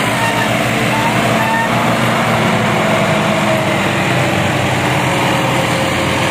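Massey Ferguson 240 tractor's three-cylinder diesel engine running hard, pulling a heavily loaded trolley; the engine note drops slightly in pitch in the second half.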